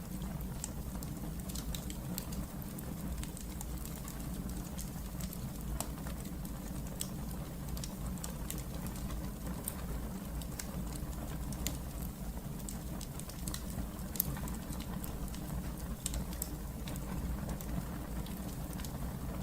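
Wood fire burning in a fireplace, crackling with scattered sharp pops and snaps over a steady low rumble of the flames.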